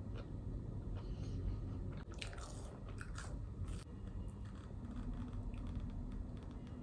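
A person biting and chewing crunchy food close to the microphone, with a few crisp crunches between about two and four seconds in, over a low steady room hum.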